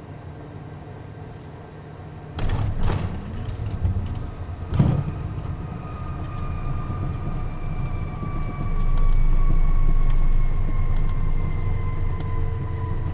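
Beechcraft Premier I business jet touching down and rolling out, heard from the cockpit: steady cabin noise, then about two seconds in a sudden jolt with several thumps and rattles as the wheels meet the runway. Low runway rumble follows, with a whine slowly falling in pitch as the jet slows.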